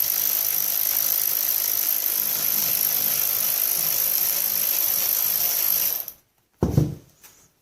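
A powered driver runs steadily for about six seconds while loosening the chainsaw's carburetor fasteners, then stops suddenly. A single knock follows shortly after.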